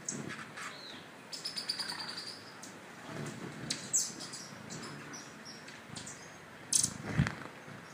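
Small birds chirping, with a quick trill about a second and a half in, and two sharp clicks near the end.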